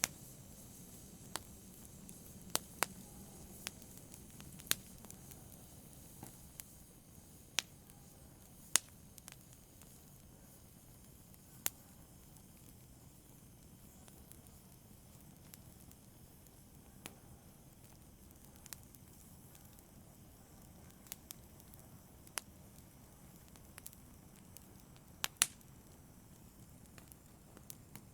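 Wood fire crackling: sharp, irregular pops and snaps over a low steady hiss, with a louder double pop near the end.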